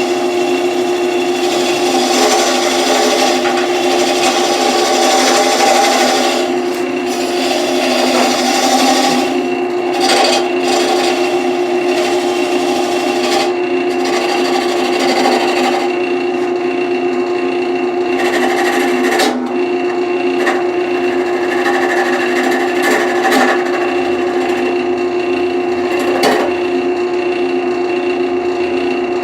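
Wood lathe running with a steady motor hum while a hand-held turning tool cuts into the spinning wood blank, reducing a tenon. The cut is a rough scraping hiss, heaviest for the first nine seconds or so, then lighter and on and off, with a few brief knocks.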